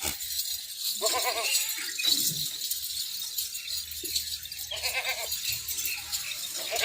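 Makhi Cheeni goats bleating: a few short, quavering bleats, one about a second in and more near the end.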